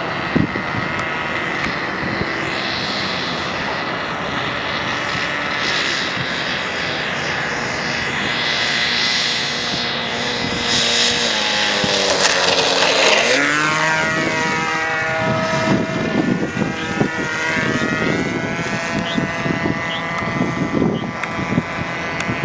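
OS .46 two-stroke glow engine of a radio-controlled model aeroplane running steadily in flight, its pitch dipping and then climbing again a little past halfway. Irregular low thumps run through the second half.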